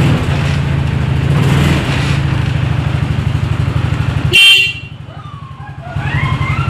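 Car engine running steadily, with a short horn toot about four and a half seconds in. After the toot the engine noise falls away for about a second, then returns.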